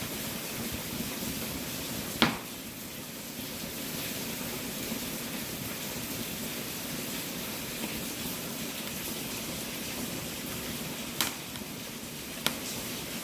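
Wood fire burning in a fireplace: a steady hiss broken by sharp crackling pops, a loud one about two seconds in and two smaller ones near the end.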